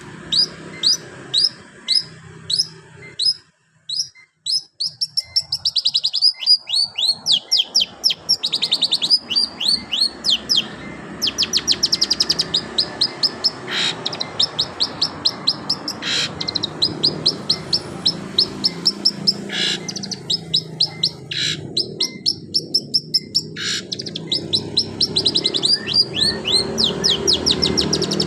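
Long-tailed shrike (cendet) singing a canary-style song: long fast trills of high notes, each sliding downward, several a second, broken by a short pause about four seconds in. A faint low hum runs underneath.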